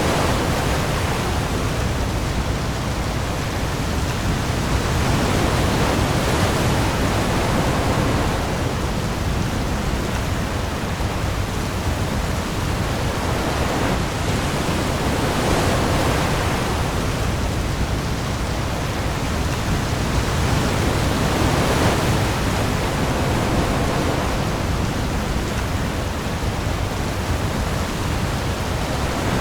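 Heavy rain pouring onto the open sea in a storm, a dense steady hiss with a deep low rumble beneath, and waves swelling and easing every few seconds.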